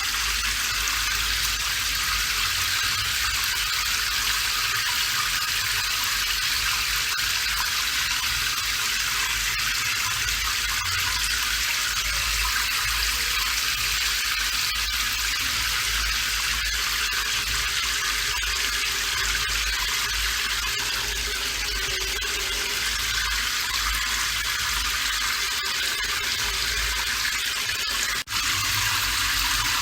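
Steady rain falling, an even hiss with a low rumble underneath, broken once near the end by a split-second dropout.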